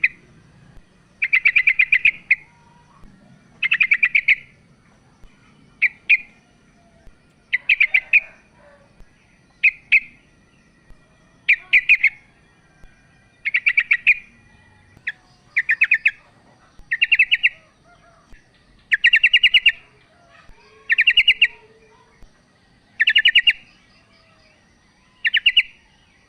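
Female yellow-vented bulbul (trucukan) calling: short, rapid chattering phrases, each under a second, repeated about every two seconds. It is the female's call to a male, used as a lure to get males singing.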